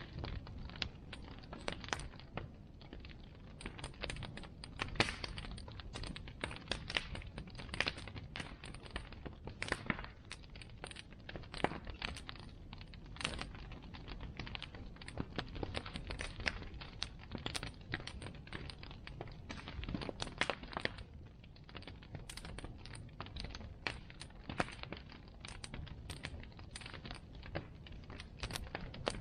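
Bonfire crackling: burning wood giving off dense, irregular sharp pops and snaps over a low steady rumble.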